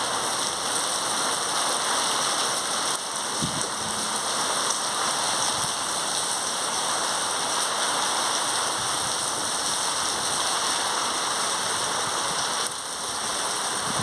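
Rain falling steadily in a windstorm, a dense even hiss, with one brief low thump about three and a half seconds in.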